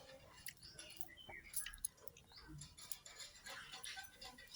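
Pet parrot eating: faint scattered clicks and crunches of its beak on food, with a few soft short chirps.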